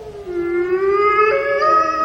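Wolves howling in chorus: several long, overlapping howls at different pitches. One voice falls away at the start, others rise and hold, and a new, higher voice joins about a second and a quarter in.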